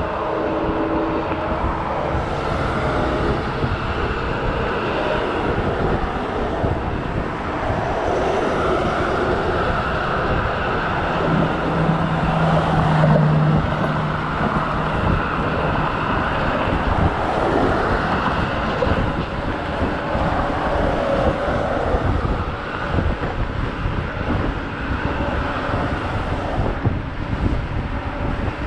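Kaabo Wolf GT Pro electric scooter riding along: a steady rush of wind buffeting the microphone and tyre and road noise, with a low hum for a few seconds near the middle.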